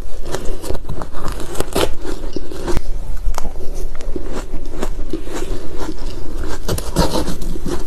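Ice being bitten and crunched close to a microphone: a dense, irregular run of sharp crackling crunches.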